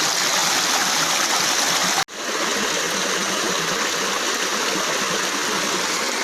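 Water flowing steadily in a stream, an even rushing hiss. About two seconds in it cuts out for an instant and resumes a little softer.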